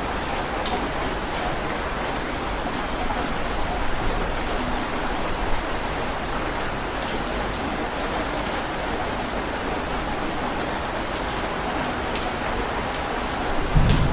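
Heavy rain falling steadily, with scattered sharp drop ticks in the hiss. Near the end a low thunder rumble begins to build.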